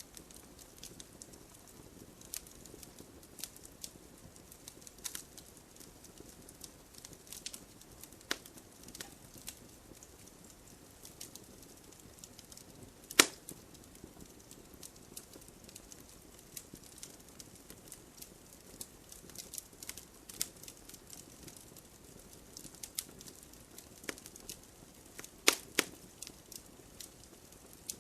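Burning firewood crackling, with irregular sharp pops over a soft, steady flame hiss. One loud pop comes about halfway through and two more come close together near the end.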